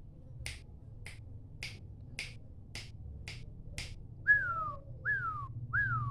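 Zebra dove (perkutut) lure call: a run of sharp clicks a little under two a second, then, about four seconds in, a series of short whistled notes that each fall in pitch.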